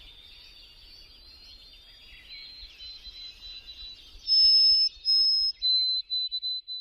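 Many small birds chirping together in a high, dense chorus. About four seconds in, a louder, closer bird gives two long, steady high whistles, then a quick run of shorter whistled notes.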